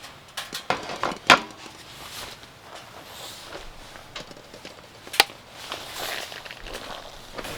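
Scattered sharp knocks and clacks of hard objects being handled, with two louder ones about a second and five seconds in.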